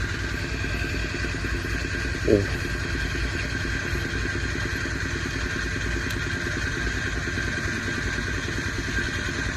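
A small engine running steadily at an even speed, a constant drone with no revving. A brief voice sound cuts in once, about two seconds in.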